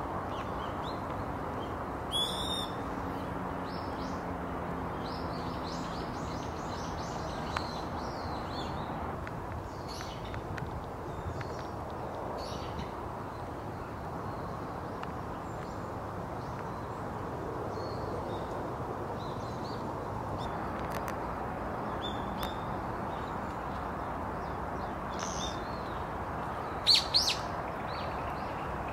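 Birds calling over steady outdoor background noise: a quick run of high chirps about two seconds in, scattered short calls after that, and the loudest calls near the end.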